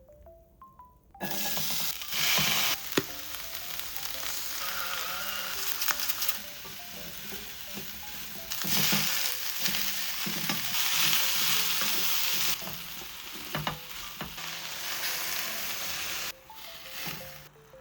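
Ingredients for stir-fried udon sizzling in hot oil in a frying pan while being stirred, the sizzle swelling and easing, with a few clicks of the utensil against the pan. It starts about a second in and cuts off shortly before the end.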